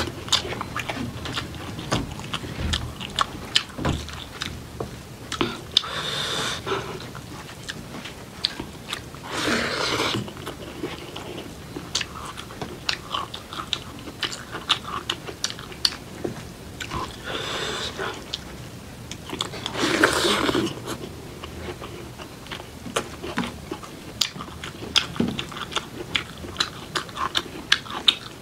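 A person chewing and biting food close to the microphone: rapid wet mouth clicks and some crunching, with a few longer, louder rushes of noise every several seconds.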